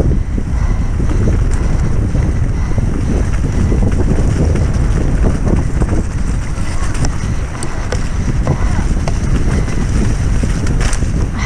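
Wind buffeting the microphone of a mountain bike's on-board camera during a fast trail descent, with the rattle and clatter of the bike over rough ground.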